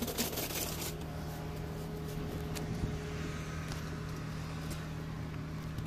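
Car engine idling: a steady low hum, with a few faint clicks.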